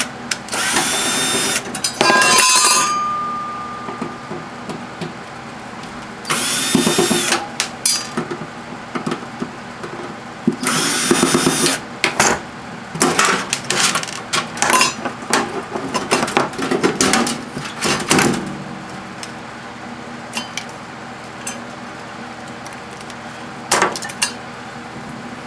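Power drill-driver running in three short bursts of about a second each, backing out the screws that hold a microwave oven's turntable motor. In between and afterwards, clinks and knocks of small metal parts being handled, one of them ringing briefly.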